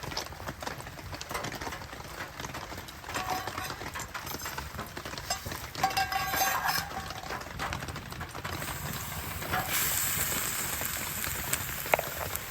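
Wood fire crackling in an outdoor fireplace with rain falling, many small sharp crackles over a steady wash of noise. A hiss rises about eight and a half seconds in and fades near the end.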